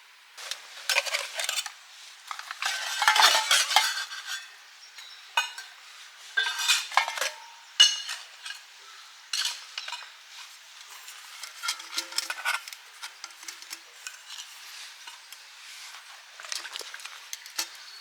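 Metal camp gear clinking and clattering as it is handled, in irregular bursts of sharp clicks.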